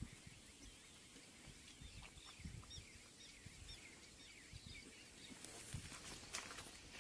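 Faint birds chirping, a quick run of short chirps about two to four seconds in, over soft low thumps and a brief rustle near the end.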